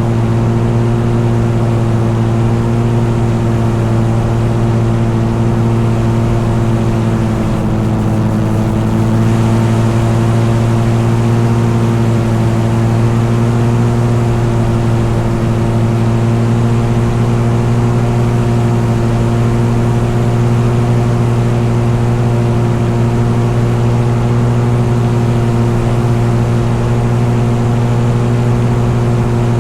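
Engine running steadily at a constant speed, a continuous drone with a slight brief dip in pitch about eight seconds in.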